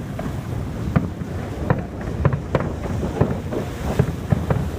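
Aerial fireworks bursting in an irregular run of about a dozen sharp bangs, over a steady low rumble.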